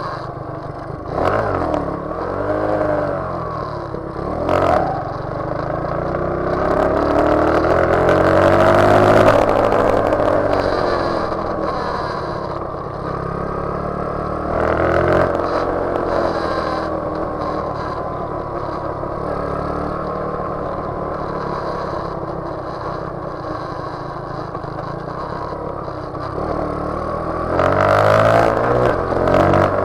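Motorcycle engines revving up and down while riding, their pitch climbing and dropping again and again. The loudest stretch is around eight to ten seconds in, and there is another burst of revving near the end.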